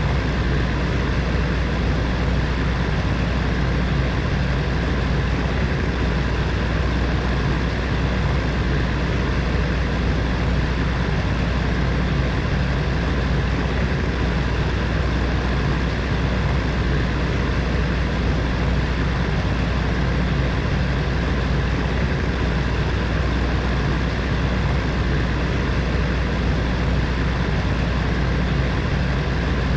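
Heater fan running steadily: an even whoosh of moving air over a deep motor hum, with no change in speed.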